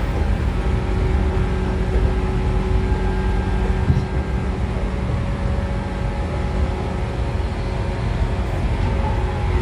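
Running sound inside the motor car of a 113 series electric train: MT54 DC series-wound traction motors and 4.82-ratio gearing give a steady whine over the rumble of the DT21B bogies on the rails, at a roughly constant speed.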